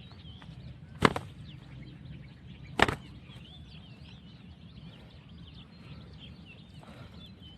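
Wild birds chirping faintly and continuously, with two sharp knocks, about one second and nearly three seconds in.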